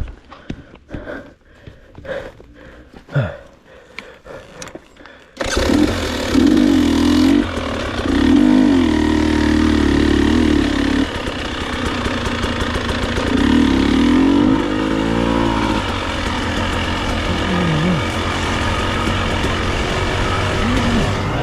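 Scattered clicks and knocks, then about five seconds in an enduro motorcycle engine starts abruptly and runs loud, revving up and down.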